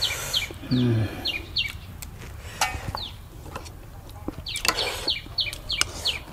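A bird calling in runs of quick, short falling chirps, one run at the start and another about five seconds in, over scattered small clicks of eating; a brief low hum of a voice about a second in.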